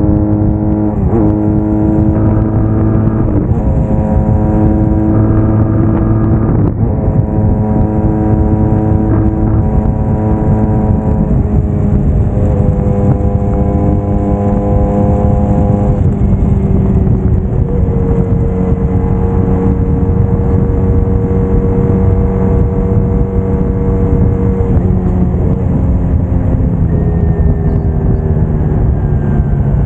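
Braaap Moto4 motorcycle engine running at road speed, its pitch holding steady for several seconds at a time and then shifting up or down with the throttle. Heavy wind rush on the bike-mounted camera's microphone runs under it.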